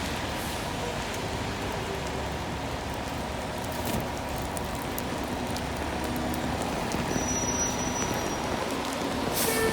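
Steady hiss of outdoor city street noise with faint tones over it, and a sharp knock near the end.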